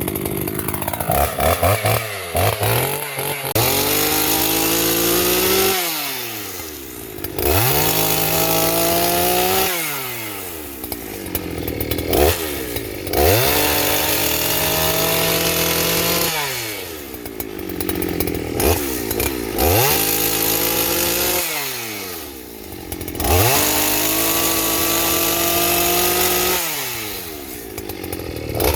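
Big two-stroke chainsaw revved hard over and over, the engine climbing to full speed and dropping back toward idle about every four seconds.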